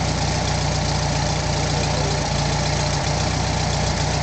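Air-cooled flat-four engine of a 1977 VW Beetle 1303 Cabriolet idling steadily.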